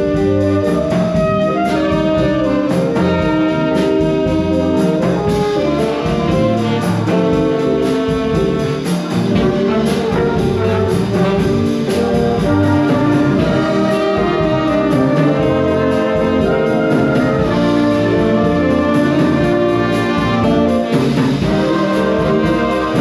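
An instrumental ensemble playing, with brass instruments prominent among many sustained notes.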